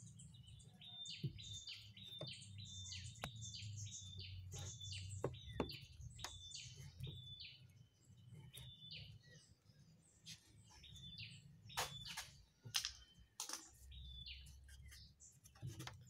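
Faint small-bird chirping, quick high short notes repeated several times a second, with a few sharp clicks later on.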